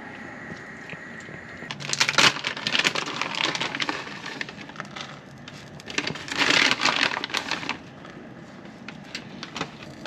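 Leftovers crackling and sizzling in a hot pan on a propane stovetop, in two bursts of a couple of seconds each as the food is stirred and moved around.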